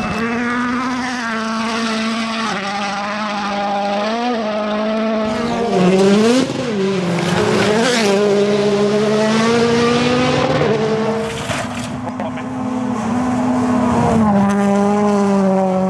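Rally car engine running hard under load, a strong steady pitch that dips and recovers sharply a few times, about 4, 6 and 8 seconds in, as the driver lifts or shifts.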